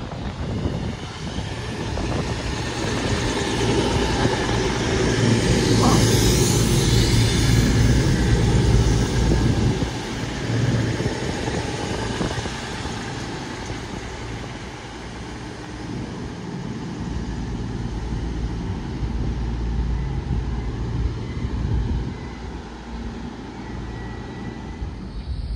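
Diesel train running through the station, its engine rumble and rail noise swelling to a peak about six to nine seconds in, then easing off.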